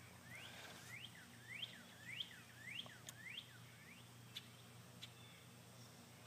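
Faint bird chirps, a run of about seven quick rising notes, roughly two a second, that stops about four seconds in; otherwise near silence.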